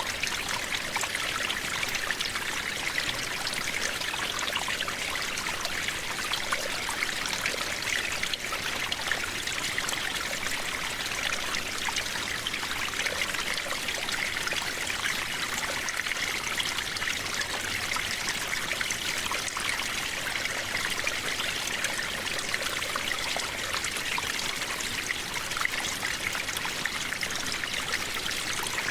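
Steady rain, an even hiss of dense falling drops with a fine patter through it. No thunder.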